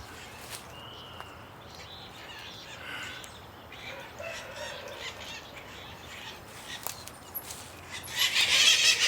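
A flock of birds feeding in a tree: scattered faint calls and chirps, then about eight seconds in a sudden loud burst of many birds squawking together.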